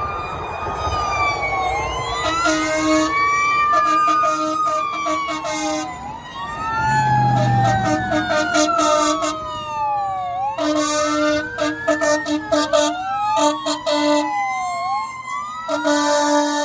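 Fire engine siren wailing, its pitch sweeping slowly up and down with more than one siren tone overlapping, broken by repeated short horn blasts in quick groups. A low engine rumble swells about seven seconds in.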